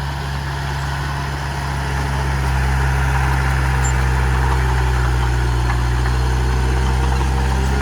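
Heavy diesel engine of earthmoving machinery running steadily, growing a little louder about two and a half seconds in.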